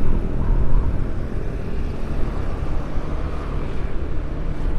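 Steady engine rumble and road noise of a moving vehicle, heard from on board.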